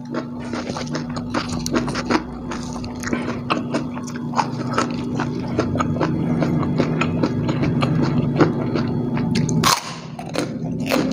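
A person chewing and crunching crisp food, white crackers and crispy fried egg, with many small crunches and one sharper, louder crunch about ten seconds in. A steady low hum runs underneath.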